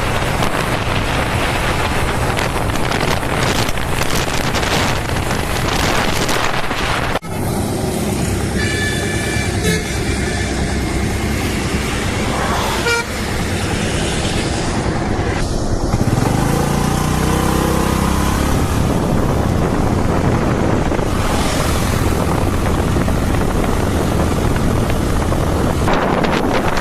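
Loud road and wind noise from traffic. A vehicle horn sounds around nine seconds in and again briefly around thirteen seconds, and an engine revs up with rising pitch around sixteen to eighteen seconds.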